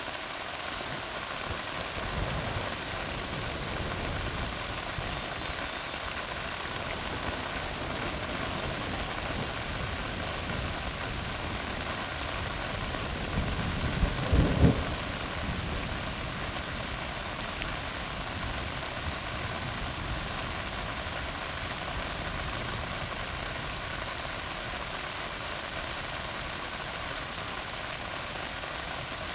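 Steady rain falling on a tar road. About halfway through comes a short, loud, low rumble of thunder.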